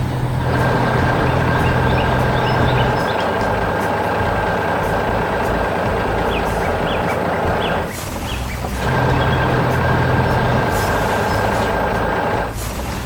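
Heavy truck engine sound effect running steadily at one pitch, dropping out for under a second about eight seconds in and then picking up again.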